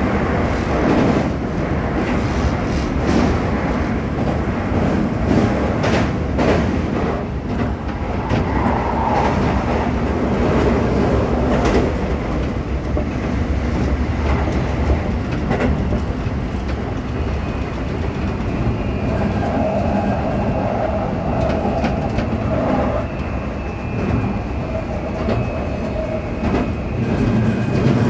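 Toei 5500 series commuter train running between stations, heard from inside the car: a steady rumble of wheels on rail with clicks over the rail joints. A faint high whine joins in during the second half.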